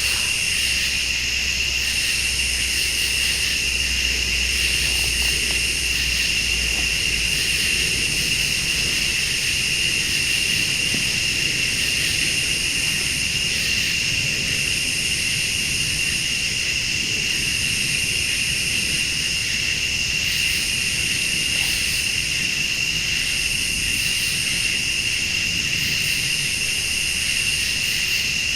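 Night chorus of crickets and late-summer insects: a steady high trill with a higher buzz that pulses on and off every couple of seconds. A low rumble lies under it for the first several seconds.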